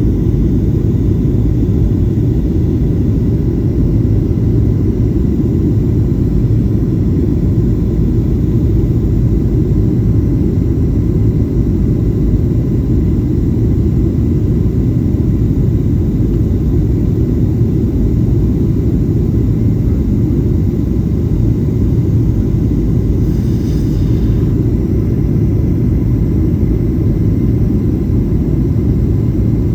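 Steady, loud low rumble of a Boeing 737-800 in flight, heard from inside the passenger cabin: engine and airflow noise with a faint steady whine above it.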